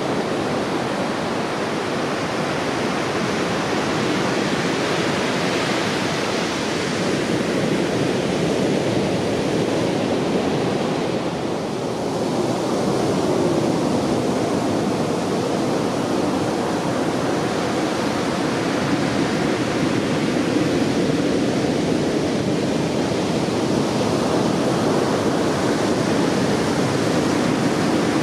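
Heavy surf from a typhoon swell breaking on a sandy beach: a continuous wash of waves that dips slightly about halfway through and then swells again.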